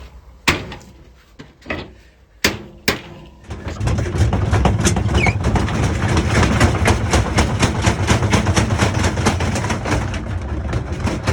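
Beko WTG941B2W washing machine, just switched on: a few single clicks and knocks, then about three and a half seconds in the machine starts running with a loud, fast rattling and knocking over a low rumble.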